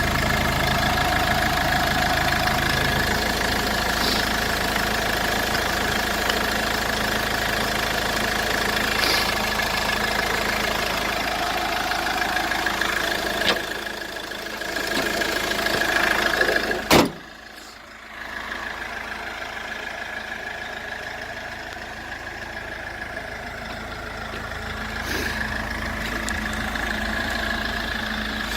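Iveco Daily 35C12D van's diesel engine idling steadily. A sharp click comes about seventeen seconds in, and after it the idle is quieter.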